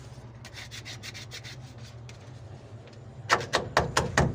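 Fast, repeated rubbing or scraping strokes against a steady low hum. The strokes are faint at first and turn much louder and sharper about three seconds in.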